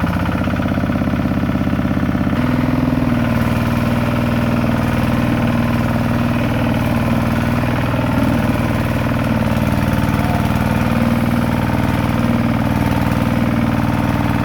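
Kubota tractor's diesel engine running steadily, its note shifting once about two seconds in.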